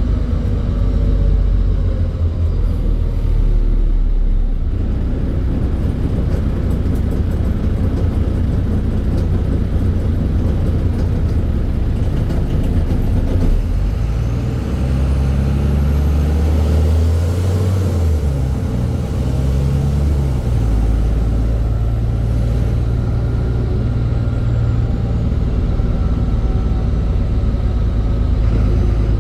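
NefAZ-5299 city bus's diesel engine running as the bus drives, heard from inside the cabin. Its low drone changes pitch as the bus speeds up and slows down, shifting most clearly about halfway through, with a faint high whine rising and falling in the middle.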